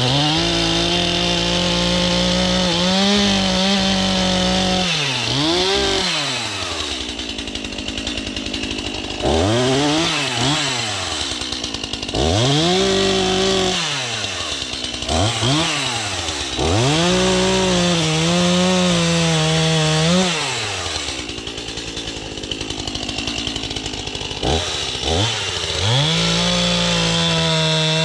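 Two-stroke gas chainsaw revved over and over, its pitch climbing to full throttle, holding there for a second or more at a time, and dropping back to idle, as it cuts into a fallen tree. Twice it settles to a quieter idle for a few seconds.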